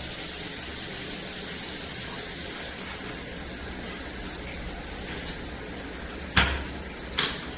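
Hibbent all-metal shower head spraying water in a steady hiss. A sharp knock comes about six seconds in, and a smaller one just after.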